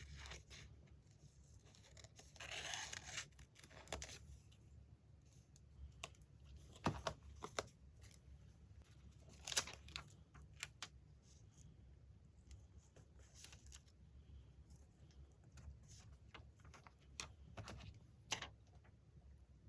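Magazine paper being handled and cut: a longer rasp of paper about two to three seconds in, then scattered light clicks and taps.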